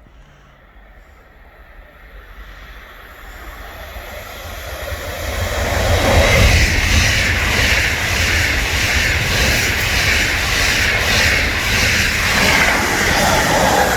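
A train approaching and passing, growing from faint to loud over about six seconds, then a steady loud rush of wheels on rail.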